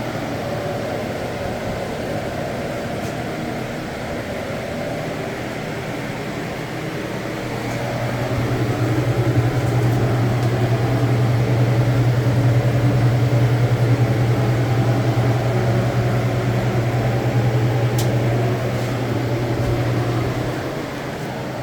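Refrigeration unit of a walk-in cold room running with a steady low hum, which grows louder about a third of the way in and eases back near the end.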